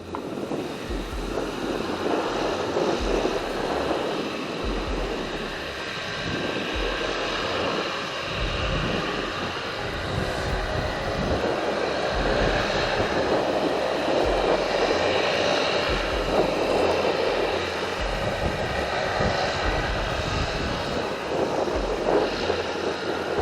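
Engines of a military transport aircraft running steadily, with uneven low buffeting from wind on the microphone.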